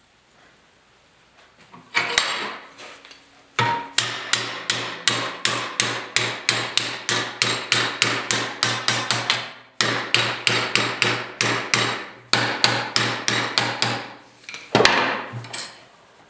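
Hammer blows on a steel hood-latch bracket as it is bent to shape: a single blow, then two quick runs of about four strikes a second with a short break between, and a last hard blow near the end.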